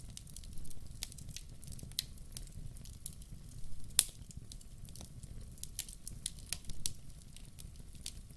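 Wood fire crackling in a fireplace: burning logs giving irregular sharp pops and snaps over a low steady rumble of the flames, with the loudest pop about four seconds in.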